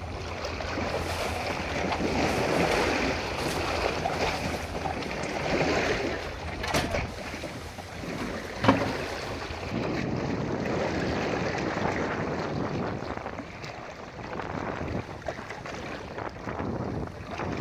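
Sea water washing and splashing with wind buffeting the microphone, broken by a few knocks; the loudest is a single sharp knock about nine seconds in.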